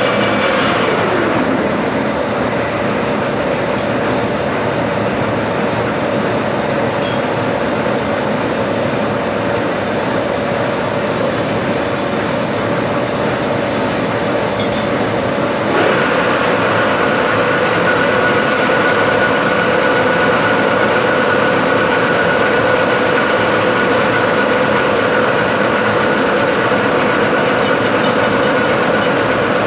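Metalworking machine tool running steadily, a loud even noise with a steady whine; about halfway through the sound steps up and a higher whine joins in.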